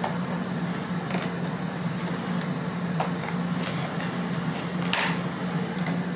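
Light clicks and knocks of plastic toy truck and crane pieces being handled, the sharpest about five seconds in, over a steady low hum.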